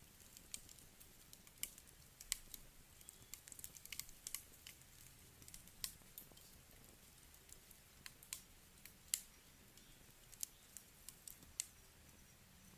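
Wood campfire crackling: irregular sharp pops and snaps of burning logs, a few to several a second with some stronger cracks, over a faint steady hiss.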